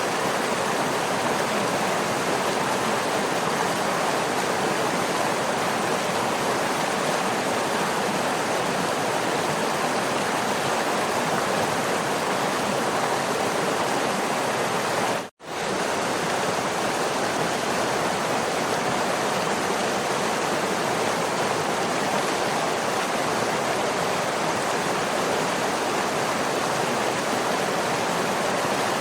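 Waterfall rushing in a steady, even roar of falling water, cut off for a split second about halfway through before resuming unchanged.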